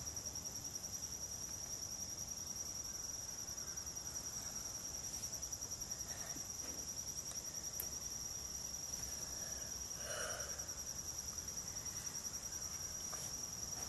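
Insects trilling steadily in a high, fast-pulsing continuous chorus.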